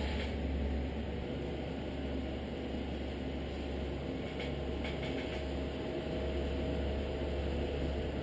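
Steady low mechanical drone, engine-like, with a few faint clicks about four and five seconds in.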